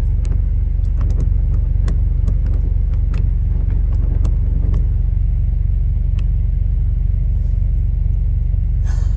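Vehicle engine idling steadily with a low, even rumble, with a few light clicks over it.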